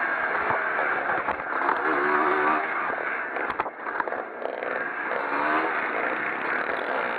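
Pre-1965 motocross motorcycle engines racing, revving up and down as the bikes work round the track.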